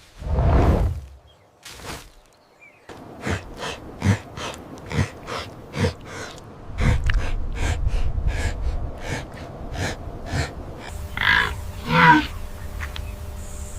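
Wild animal sounds: a loud deep grunt in the first second, then a long run of short sharp sounds, about three a second, and two pitched calls near the end.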